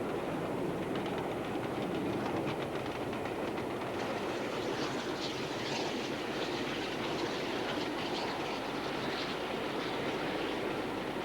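A train hauled by LNER V2 class steam locomotive 4771 Green Arrow running steadily, its wheels clattering over the rail joints. Bursts of hiss come in about halfway through.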